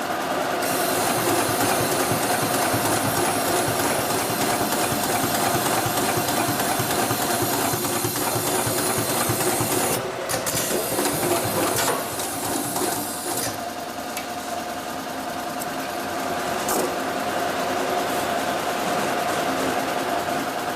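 Hightex/Cowboy 7318-15 long-arm, single-needle, triple-feed (walking-foot) sewing machine with a large vertical hook, stitching with a fast, steady needle beat. It eases off a little past the middle, then picks up again.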